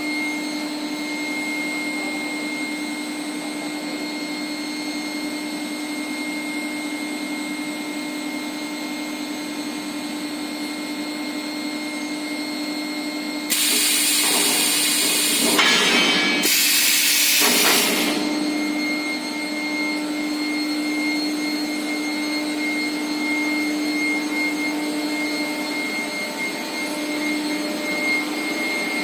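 Steel pipe induction heating line running: a steady machine hum with a steady high-pitched tone. About halfway through, a loud hissing rush breaks in for about four seconds, with a short break in the middle.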